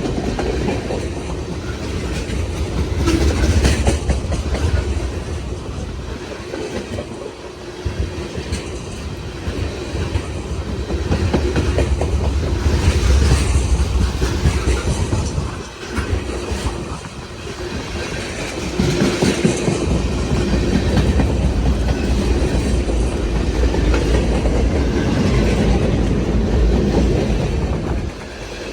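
CSX freight train cars rolling past steadily, their wheels clicking rhythmically over the rail joints, with the loudness swelling and dipping as the cars go by.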